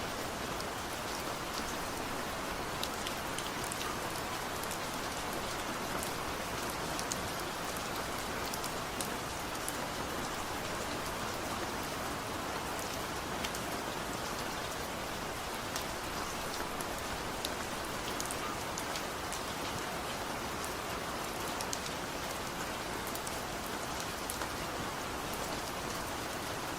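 Steady rain with no thunder: a dense even hiss with many separate drops ticking on a surface.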